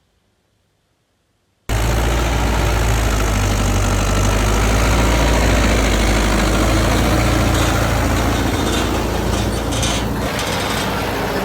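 Mahindra Yuvo Tech+ 575 DI tractor running steadily while pulling a working super seeder. The sound cuts in suddenly after near silence, less than two seconds in, and a few clattering knocks come near the end.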